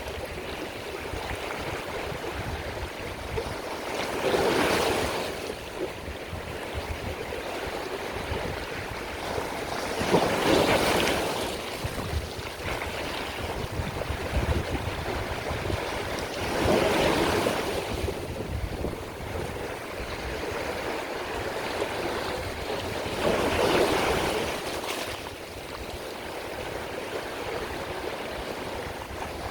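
Sea waves breaking, four times about six or seven seconds apart, each a swelling wash of surf that fades away, over a constant low rumble.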